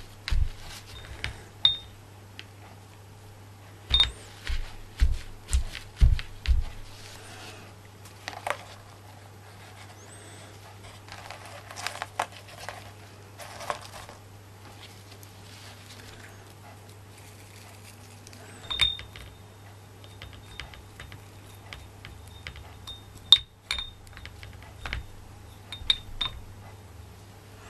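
Painting supplies being handled: scattered knocks and taps during the first few seconds, some rubbing and rustling midway, and small sharp clinks later on, over a steady low electrical hum.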